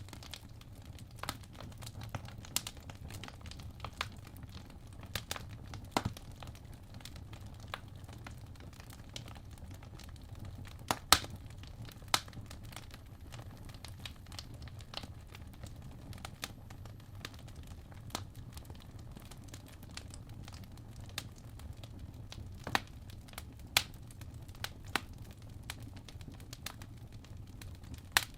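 Campfire crackling: irregular sharp pops and snaps over a low steady rumble, with the loudest pop about eleven seconds in.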